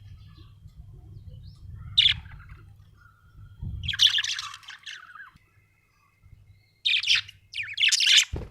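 Budgerigar chirping in short bright bursts: a single sharp chirp, then a run of rapid chatter, then two more quick flurries of chirps. A low thump comes near the end.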